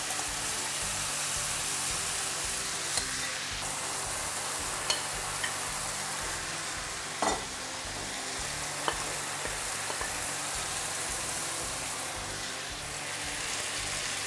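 Marinated chicken pieces sizzling in olive oil in a nonstick frying pan, with sliced onion stirred in by a wooden spatula. The hiss is steady, broken by a few sharp knocks and clicks of the spatula against the pan.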